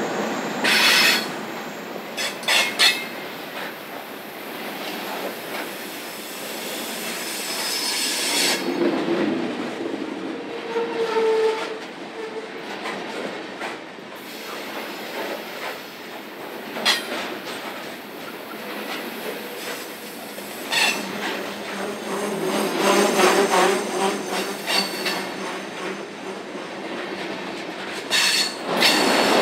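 Freight train cars rolling past, wheels clicking over rail joints with a steady rumble, and flanges squealing now and then.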